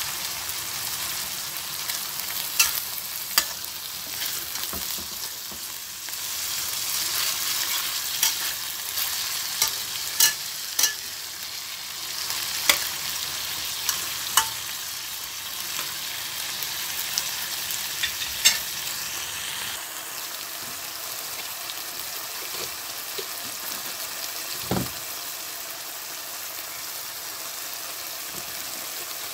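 Chicken and sliced onion sizzling in oil in a wok, with a metal spatula clinking and scraping against the pan every second or two. Later the clinks stop and the sizzle goes on more quietly, with one low thump near the end.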